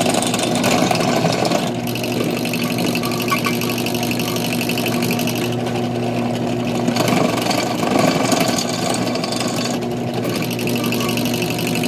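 Electric drill running steadily at low speed, its bit drilling into aluminum, with a constant motor hum; the sound gets rougher for a second or two about seven seconds in.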